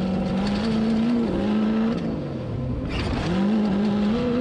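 Off-road vehicle engine running hard at fairly steady revs. Its pitch drops and climbs back twice, about a second in and again near three seconds.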